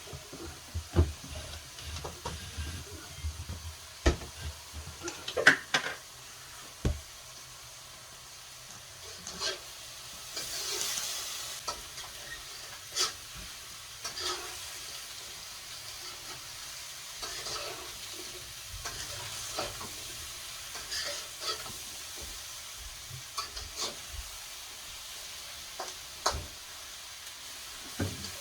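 Scattered clicks, knocks and scraping of refrigerator parts being handled and fitted back in place during reassembly, with a longer rustling scrape about ten seconds in.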